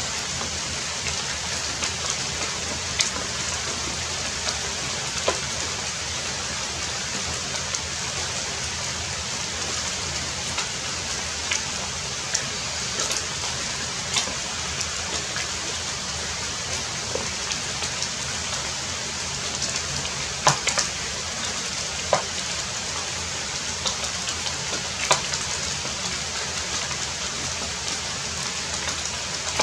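Heavy rain falling steadily, with scattered louder drops and drips hitting close by.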